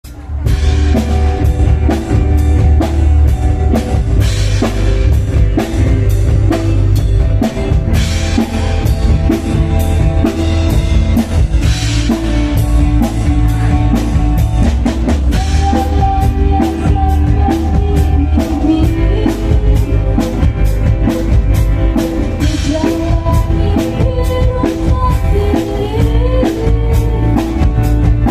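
A live band plays a song: a drum kit keeps a steady, busy beat over heavy bass and sustained chords.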